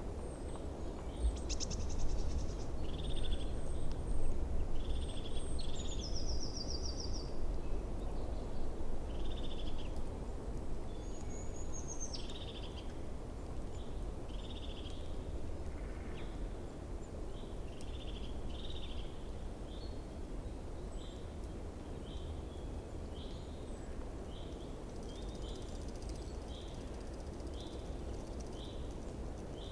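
Wild songbirds chirping: short high notes, with a couple of fast trills in the first half, then a steady run of chirps a little more than one a second. Underneath is a steady low background rumble.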